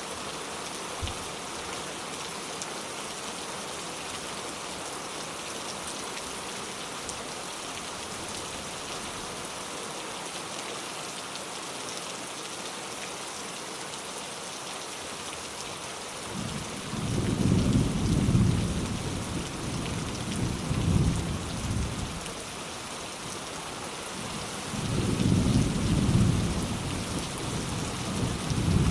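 Steady rain falling, with two low rolls of light thunder: the first starts a little past halfway and rumbles for about five seconds, the second comes near the end.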